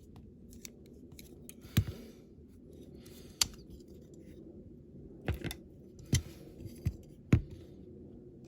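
Sharp clicks and taps of small plastic and metal parts of a 1:64 diecast model car being handled as it is taken apart, about six separate clicks over a faint steady hum.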